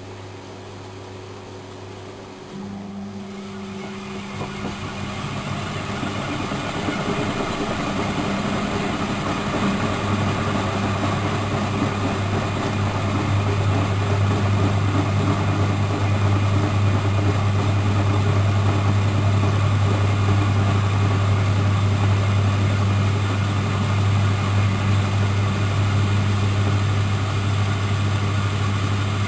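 Miele Professional WS 5105-C washing machine running. A new motor sound starts about two seconds in, grows louder over several seconds, then holds as a steady loud hum with a rushing noise over it.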